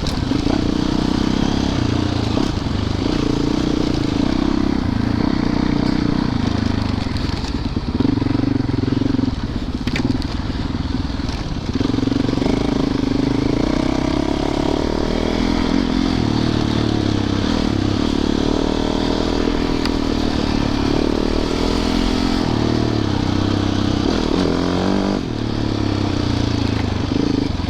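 Yamaha YZ450FX's single-cylinder four-stroke engine running along a dirt trail, its pitch rising and falling with the throttle, over a steady noisy rush, with a sharp click about ten seconds in.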